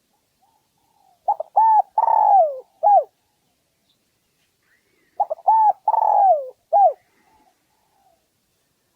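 Spotted dove cooing: two song phrases about four seconds apart, each a quick couple of short coos, then a long coo that falls in pitch, and a short closing note.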